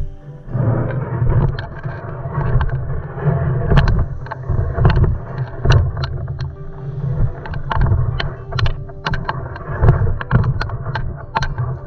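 Kayak being paddled: water splashing and dripping off the paddle blades, swelling about once a second with the strokes, over a low rumble of water close to the camera.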